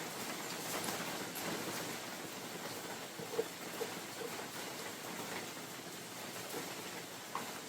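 Steady spring rain falling through a forest, with wind, making an even hiss. A few short, faint plinks of drops stand out about halfway through.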